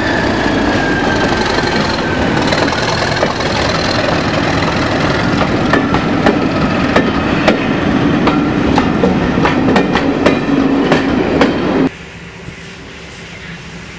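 Train passing close by at speed, a loud rumble with a high whine slowly falling in pitch, then a rapid run of wheel clicks over the rail joints. The sound cuts off suddenly near the end.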